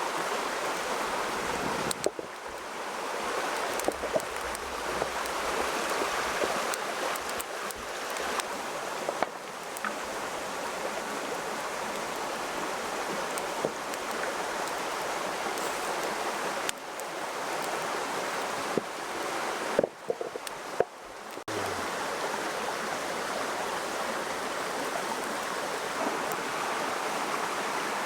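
Steady rush of running water, like a stream, with scattered light clicks and knocks. It breaks off abruptly a few times.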